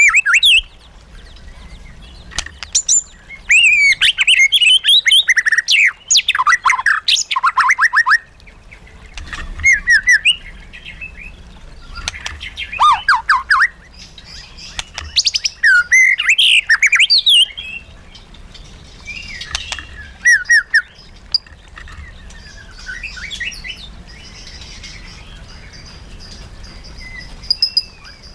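White-rumped shama singing: loud bursts of fast, varied whistles and trills a few seconds apart, broken by short pauses. A faint steady high tone runs under the song near the end.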